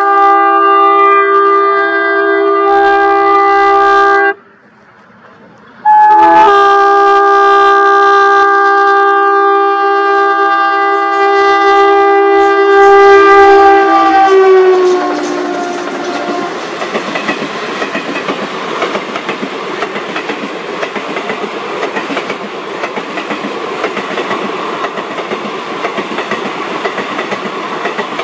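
Twin ALCO WDM-3A diesel locomotives' air horn sounding a long chord of several notes. It breaks off for about two seconds after four seconds, sounds again, and drops in pitch about fifteen seconds in as the locomotives pass at speed. The coaches then rush past with a steady clatter of wheels on the rails.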